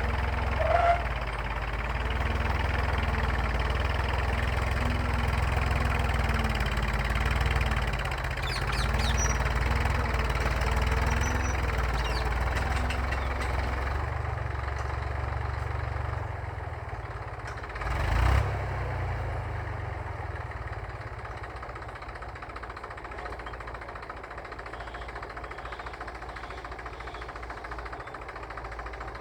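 Massey Ferguson tractor engine running steadily while pulling a plough, with one short louder knock about two-thirds of the way through. The engine grows quieter toward the end.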